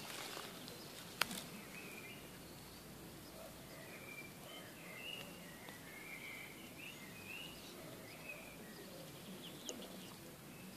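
Quiet outdoor background with faint, scattered bird chirps, and one sharp click about a second in.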